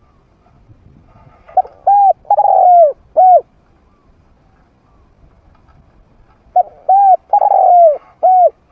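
Trained spotted dove cooing: two phrases about five seconds apart, each a quick run of four coos in which the third is longer and falls in pitch.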